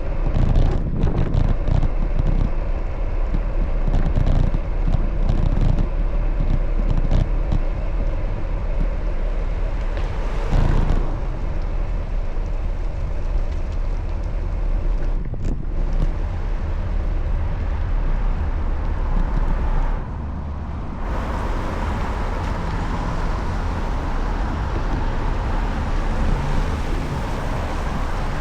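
Street traffic and road noise heard from a moving bicycle, with wind rumbling on the microphone and scattered light clicks and knocks in the first half.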